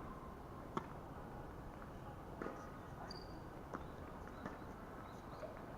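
A few sharp, short knocks at uneven intervals of about one to two seconds, the loudest about a second in, over a faint steady background.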